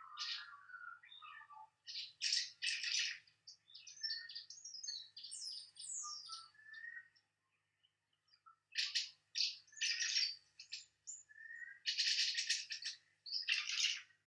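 Tree martins twittering: short buzzy chirps and chattering bursts, with a brief pause about halfway through.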